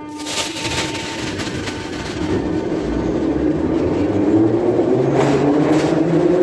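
Electric train accelerating: a rising motor whine over a steady rumble that grows louder.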